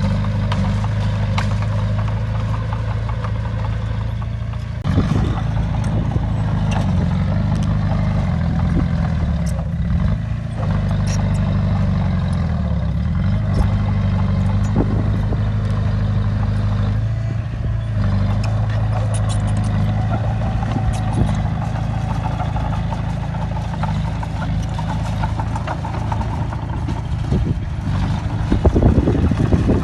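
Heavy diesel engine of a bulldozer running steadily, its pitch shifting up and down a few times as it works under load, with clattering near the end.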